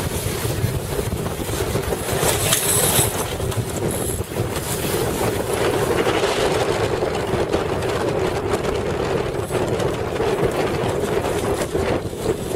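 Motorboat engine running steadily at speed, a constant drone under wind buffeting the microphone and water rushing past the hull.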